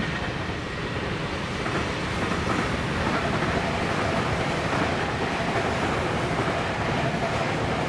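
Electric train running past, a steady rush of wheel and running noise with a faint steady whine.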